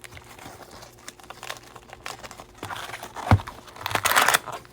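Crinkling and rustling as crinkly material is handled, with a soft knock a little over three seconds in and a louder stretch of crinkling around four seconds in.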